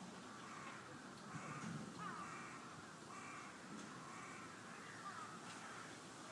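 A bird calling over and over, a run of short calls about one a second.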